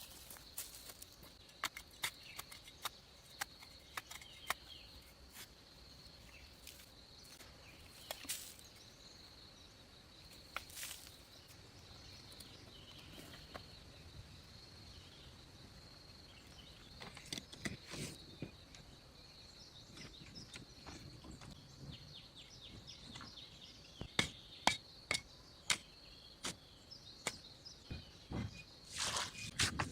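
Steady high-pitched insect drone with scattered sharp knocks and taps, coming more often near the end.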